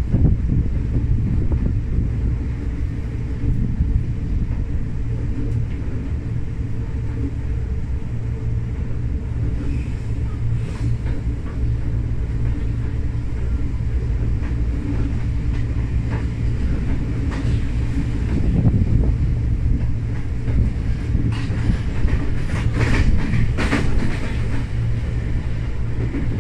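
Interior running noise of a Tokyo Metro 05 series commuter train under way: a steady low rumble of wheels on rail. Several sharper clicks come in the second half.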